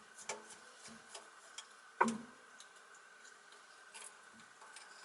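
Light clicks and taps of small hard motor parts being handled, with a sharper knock about two seconds in.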